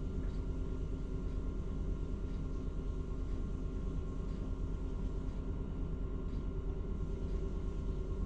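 Engine of a mobile crane running steadily with a low, even rumble.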